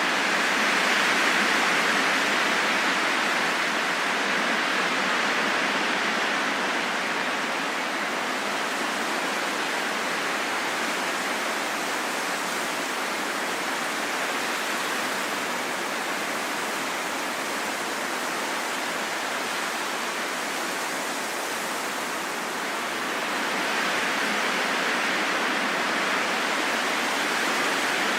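Steady heavy rain falling in a forest: a dense, even hiss with no single drops standing out. It eases slightly for a moment and then builds back up near the end.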